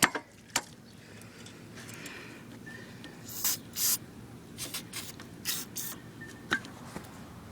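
Scattered sharp clicks and short scraping sounds of hands handling parts and tools, with two brief hisses about halfway through.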